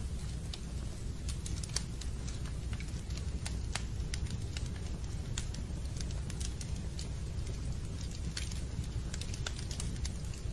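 Wood fire burning in a fireplace: a steady low rumble with irregular crackles and pops scattered throughout.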